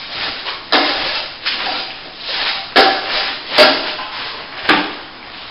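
Steel plastering trowel working plaster, about five sharp scraping strokes, each starting with a knock.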